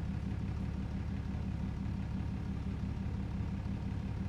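A vehicle engine idling with a steady, unchanging low hum.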